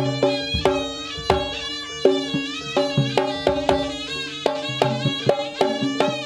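Live traditional Javanese dance-accompaniment music: struck gong-chime tones and drum strokes in a steady rhythm, with a wavering high melody above them.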